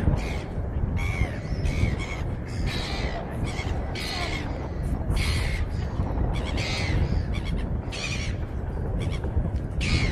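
Birds calling over and over in short calls, about one a second, over a steady low rumble of wind and inline skate wheels rolling on the path.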